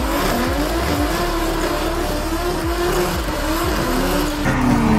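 Car engine revving, its pitch repeatedly rising and falling, over a steady hiss of noise.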